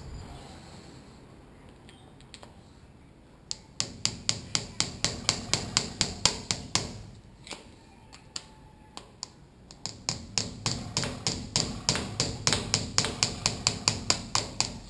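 Rapid light tapping on the 1992 Honda CR250 upside-down fork's damper, about four taps a second in two runs, working the damper past a sticking point in the fork leg.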